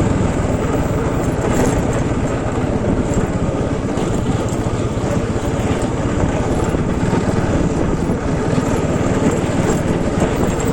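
Motorcycle engine running steadily while being ridden on a rough track, with a dense low rumble.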